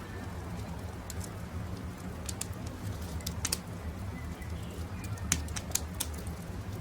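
Campfire crackling, with sharp pops every second or so over a steady low rumble, and faint birds calling in the background.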